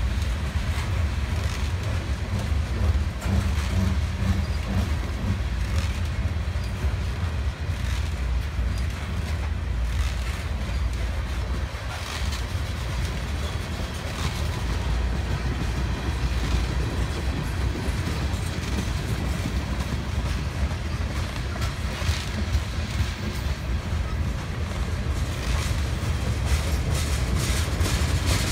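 Freight train of covered hopper and tank cars rolling steadily past, a continuous low rumble with scattered clicks of the wheels on the track.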